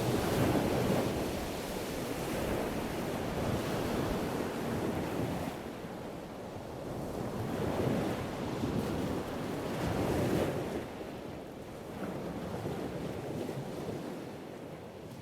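Ocean waves and wind, a steady rushing that swells every few seconds.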